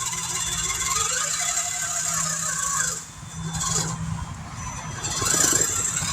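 Radio-controlled pulling truck's motor and gears whining as it drives, with rattling, easing off briefly about halfway and picking up again near the end.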